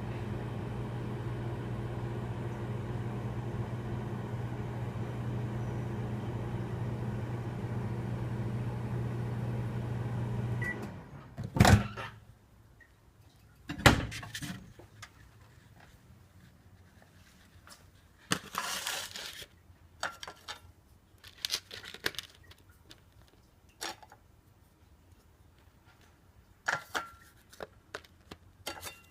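Microwave oven running with a steady low hum, which stops about eleven seconds in. Two loud clunks follow, about two seconds apart, then scattered clicks and short rustling handling sounds.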